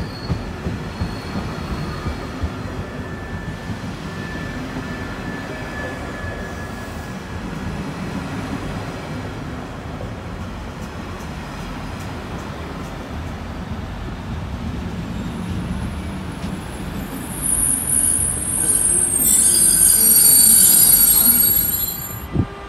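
Belgian passenger train of M6 double-deck coaches hauled by HLE27 electric locomotives rolling into the station, its wheels clicking over rail joints. About 17 seconds in, its brakes set up a loud high-pitched squeal as it slows to a stop, which cuts off suddenly near the end.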